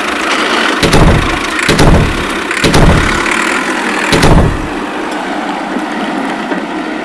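A steady engine-like noise with four heavy thumps, spaced about a second apart, in the first two-thirds.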